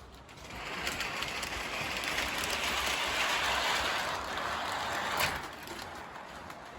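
O gauge model locomotive running at full throttle, its motor and gears grinding as it strains to pull a long, heavy train. The noise swells about half a second in and falls away after about five seconds, with a sharp click as it drops.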